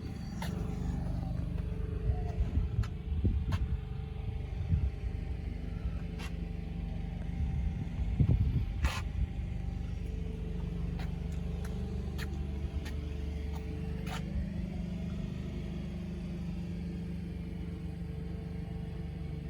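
A car engine idling with a steady low hum, with scattered clicks and a few louder knocks from handling in the cabin.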